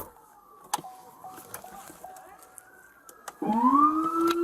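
Police car siren switching on about three and a half seconds in, its pitch rising and then holding steady. Before it there are only a few faint clicks.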